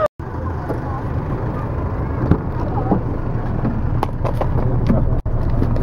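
Car engine running with a steady low rumble, with a few sharp clicks at an open car door.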